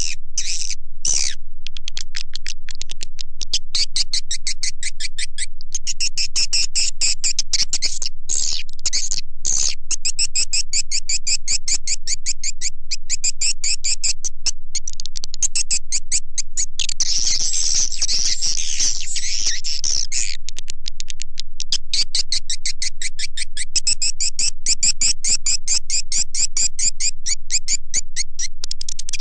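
Swiftlet call lure track (suara panggil walet) of edible-nest swiftlets: rapid, continuous high twittering chirps and clicks. A denser burst of chattering comes a little past the middle.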